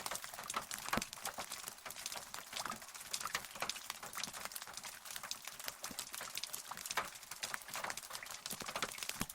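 Rain falling: a dense, uneven patter of individual drops hitting close by, crisp and without deep rumble.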